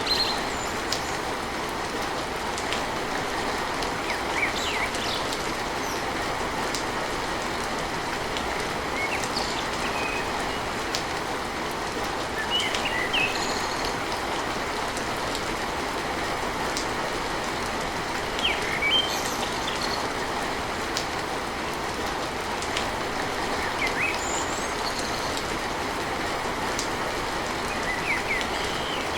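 Steady heavy rain on a tin roof, with scattered sharper drop ticks. A few short bird chirps come through the rain now and then.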